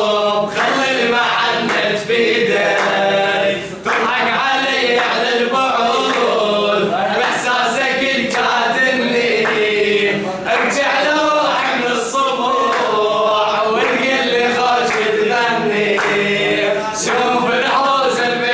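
A group of voices singing an Arabic song together, chorus-style.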